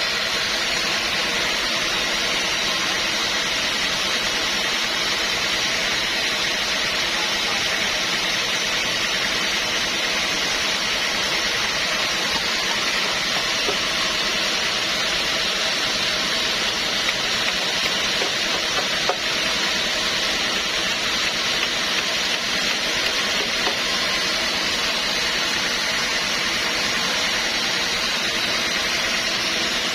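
Sawmill machinery running steadily: a constant hiss over a motor's steady hum, with a few small ticks partway through.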